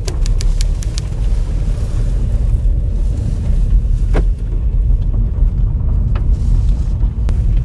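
Steady low road rumble of a car being driven, heard from inside, with a quick run of clicks in the first second and a few faint ticks later.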